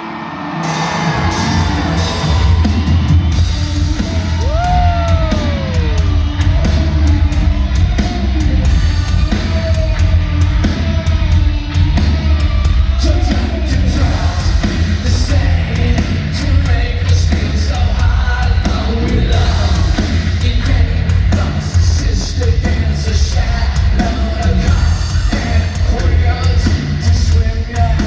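Live rock band kicking in loudly after a brief lull, heavy bass and drums with vocals over them, and a rising-and-falling whoop about five seconds in.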